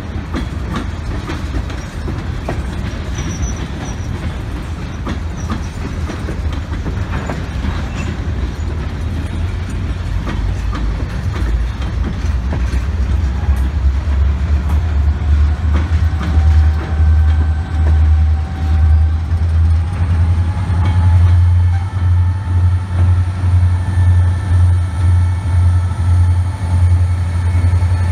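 Freight train of tank cars rolling past, wheels clattering over the rail joints. From about halfway in, the diesel engines of the approaching Norfolk Southern locomotives, the Erie Lackawanna heritage SD70ACe among them, grow louder into a deep pulsing rumble with a thin whine above it.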